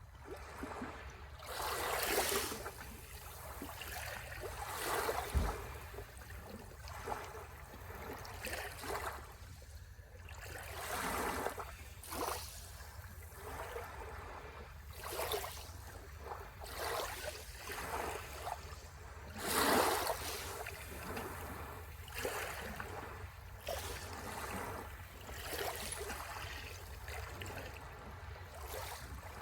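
Small sea waves washing onto the shore in irregular surges every second or few, two stronger ones about two seconds in and near twenty seconds in, over a steady low rumble.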